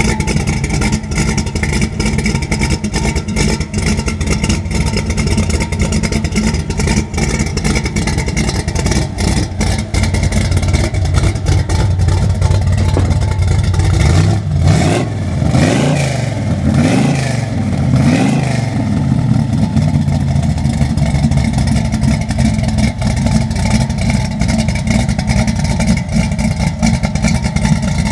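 1933 Chevy's engine running through its exhaust at a steady idle, blipped up and back down about four times in quick succession roughly halfway through, then settling back to idle.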